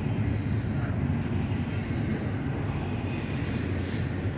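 Double-stack intermodal well cars rolling past at close range: a steady low rumble of steel wheels on rail.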